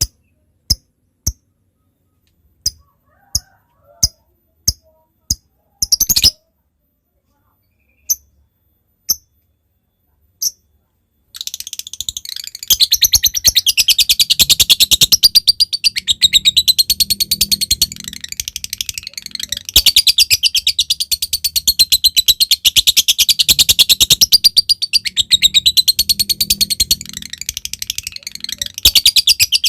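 Lovebird ticking ('ngetik'): single sharp ticks, about two a second at first, then sparser. About a third of the way in, it breaks into a long, rapid, warbling chatter ('ngekek') that runs on with a couple of brief dips.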